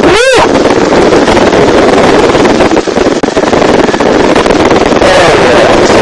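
Helicopter in flight, heard from inside the cabin: loud, steady rotor and engine noise mixed with wind buffeting the microphone. A brief whooshing sweep comes right at the start.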